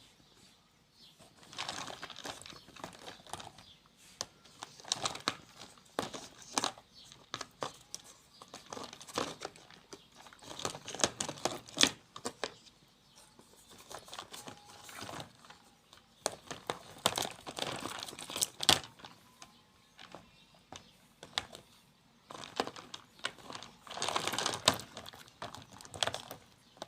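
Irregular crinkling and rustling of something being handled, with many sharp clicks and short noisy bursts.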